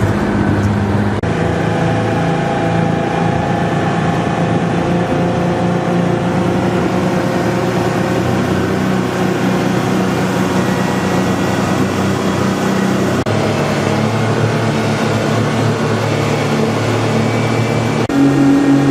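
Speedboat's outboard motor running steadily under way, with its pitch shifting a few times. Near the end it steps up higher and louder.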